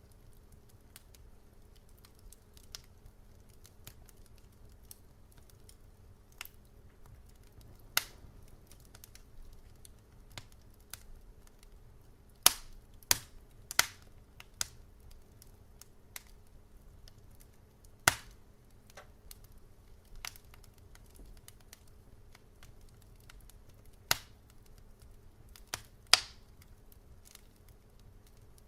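Wood fire crackling in a fireplace: scattered sharp pops and snaps, with a quick cluster of louder pops about halfway through and two more near the end, over a faint steady low hum.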